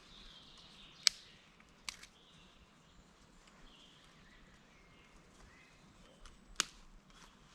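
Faint woodland ambience with birds chirping quietly, broken by three sharp cracks: two close together about a second in and a second one near the end.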